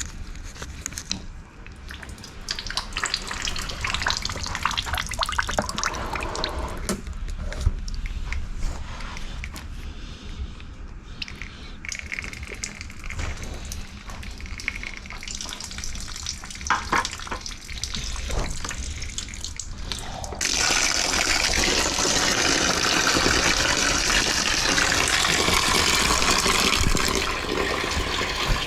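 Water-diluted coolant draining from a Hyundai Santa Fe's radiator drain into a drain pan. First comes uneven splashing with a few clicks, then about two-thirds of the way through a steadier, louder gush.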